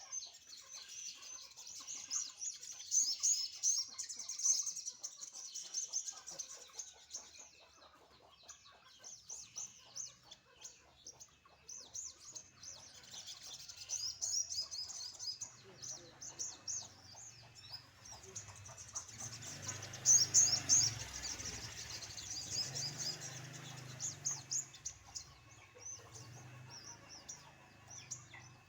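Sogon songbird twittering in rapid, high chirping runs, busiest near the start and again about two-thirds of the way in. A low rumble rises and fades under it in the middle.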